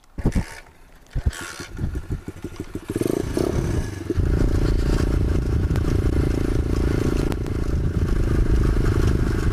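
Pit bike's small single-cylinder engine idling with a fast pulse after a couple of knocks, then rising about three seconds in and running loud and steady from about four seconds as the bike gets under way.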